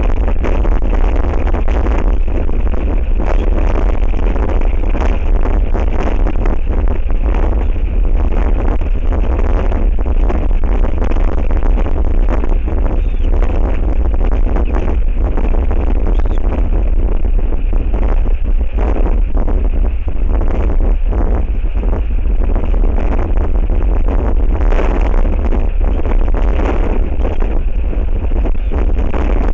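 Strong wind buffeting the nest camera's microphone: a loud, steady low rumble with a rushing, fluttering hiss over it.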